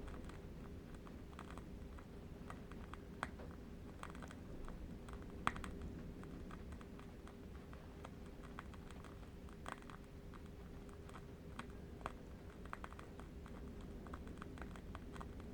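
Faint irregular clicking and crackling, several small clicks a second with a few sharper ones, over a low steady rumble and a faint steady hum.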